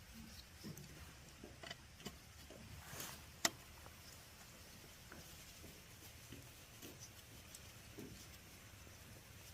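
Faint, scattered light taps and clicks of small metal parts and tools being handled, with one sharp click about three and a half seconds in.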